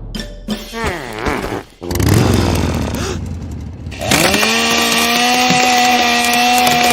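Two-stroke chainsaw engine revving unevenly, then settling about four seconds in into a steady, loud high-speed run at full throttle.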